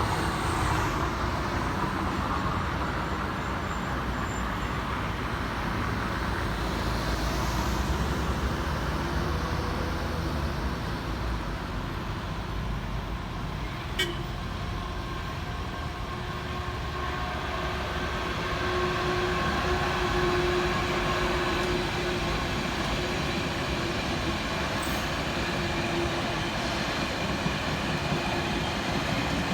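The İzmir Blue Train hauled by TCDD locomotive E 68061, running with a steady low rumble. A single sharp click sounds about halfway through, and a faint steady whine comes in during the second half.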